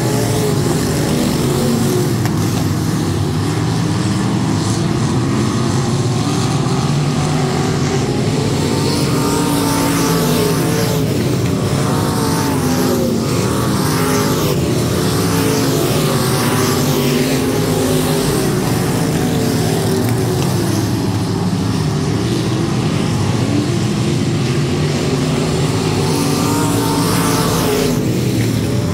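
Several race cars running laps on a dirt oval, their engines rising and falling in pitch as they go around the track.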